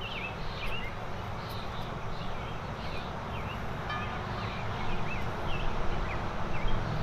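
Songbird chirping repeatedly in short rising-and-falling notes, about two a second, over a steady low background rumble.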